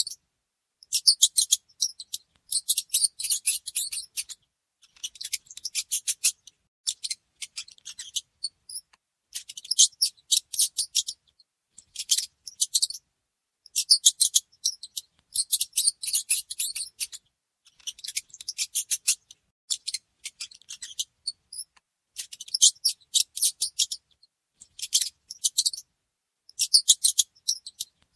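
Mice making rapid high-pitched clicking in bursts of one to two seconds, again and again, with short pauses between.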